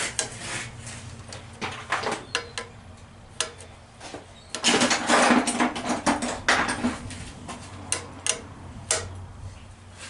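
Socket ratchet clicking and metal tools clinking while the carburetor's mounting nuts are tightened, with a dense run of rapid clicking about five seconds in.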